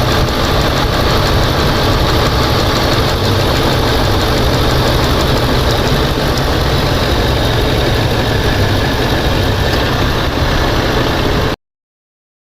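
2004 Ford F-250's 5.4-litre V8 idling steadily while its weak cylinder 6 ignition coil is checked on a spark tester; the sound cuts off suddenly near the end.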